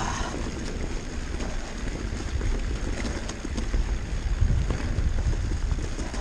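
Downhill mountain bike rolling fast over a wet, rocky trail: a steady low rumble of wind on the microphone, with scattered small rattles and clicks from the bike over the stones.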